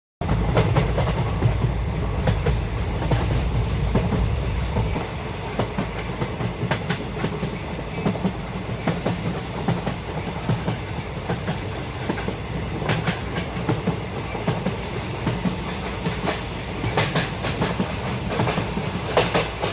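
Train running on the rails, a steady rumble with the wheels clicking over rail joints. The low rumble is heavier for the first five seconds or so.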